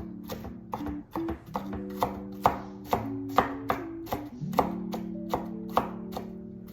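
Kitchen knife chopping onion on a cutting board, sharp even strokes about three a second, over steady background music.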